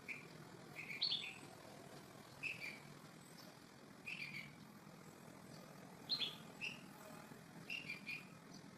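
A small bird giving short, high chirps, singly and in quick pairs, about a dozen spread irregularly through the stretch, over a steady low hiss.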